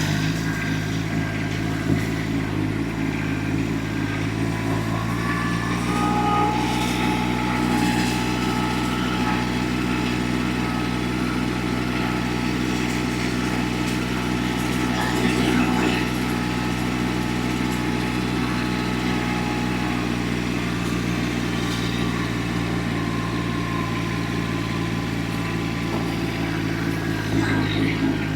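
Pickup truck engine running steadily while driving, with a slight rise in engine sound about six seconds in.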